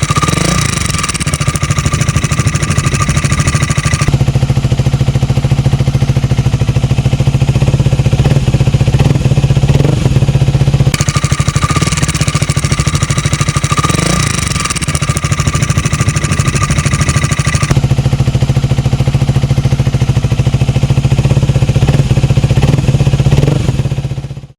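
Honda Rebel 250's single-cylinder engine idling steadily with a couple of short throttle blips, running with a freshly replaced cam chain tensioner. Its tone shifts back and forth a few times, and it cuts off abruptly at the end.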